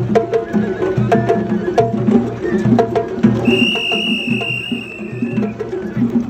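Japanese festival float music (hayashi): taiko drums beaten in a steady rhythm with sharp clacking strikes on top, and a high flute note held for about two seconds midway.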